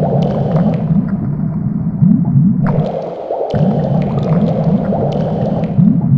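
Water gurgling, with many short, low bubbling notes that rise in pitch.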